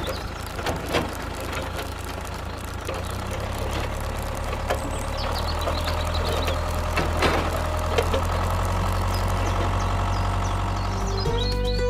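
Engine running steadily at idle, with scattered clicks and knocks over it.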